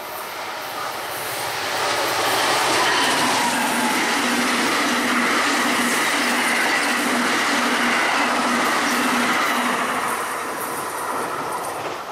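New Jersey Transit bi-level commuter train passing at speed: a steady rush of wheels on rail that builds over the first couple of seconds, holds with a faint steady hum, and fades near the end as the train goes by.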